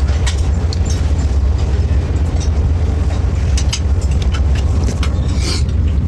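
Steady low rumble of a moving passenger train heard from inside the carriage, with scattered light clicks and a brief hiss near the end.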